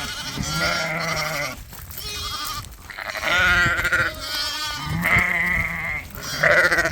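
Ewes and young lambs bleating, many overlapping calls one after another, some high and quavering, some deeper.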